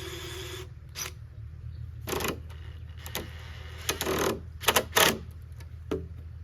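Irregular knocks and clatters of hands-on building work, about eight in all, the loudest near the end, over a steady low hum. It opens with a short burst of noise.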